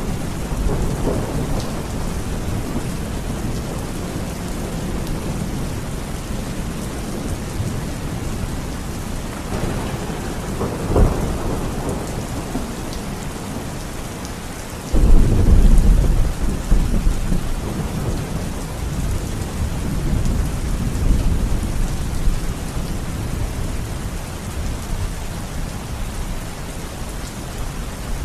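Steady rain falling, with thunder: a short sharp crack about eleven seconds in, then a loud clap about halfway through that rumbles away over several seconds.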